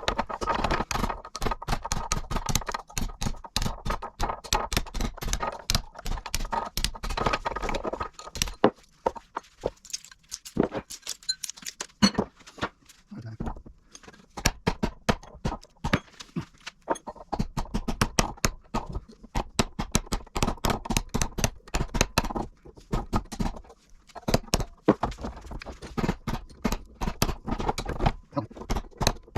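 Rapid, irregular hammer blows on metal, several a second with a couple of short pauses near the middle: copper windings being knocked out of small electric motor stators.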